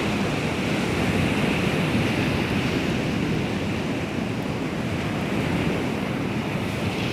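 Baltic Sea waves washing onto the shore in a steady rush, with wind on the microphone.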